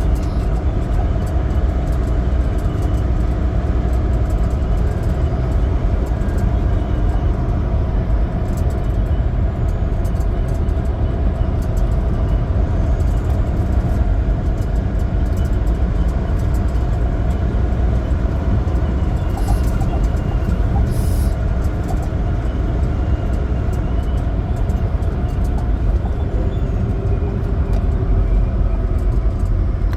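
Semi truck's diesel engine and road noise while driving at a steady speed: a steady low rumble.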